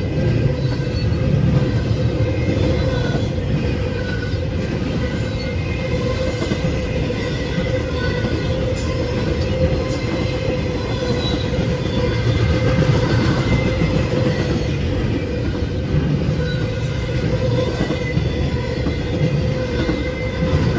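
Train cars rolling past: a steady, loud rumble of wheels on rail, with a steady ringing tone and faint high squeal from the wheels over it.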